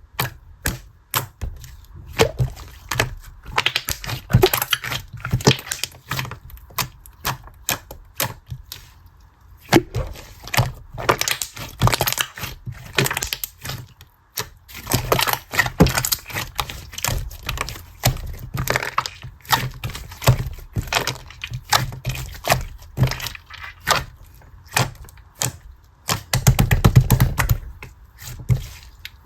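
A long run of irregular, close-up sharp clicks and taps, with brief pauses.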